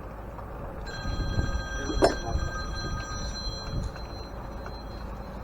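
A phone ringing: a steady electronic ring of several high tones held together for about three seconds. A sharp knock sounds about two seconds in.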